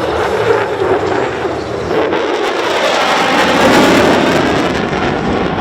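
Jet roar from a USAF Thunderbirds F-16 Fighting Falcon passing over, swelling to its loudest about four seconds in, then easing off.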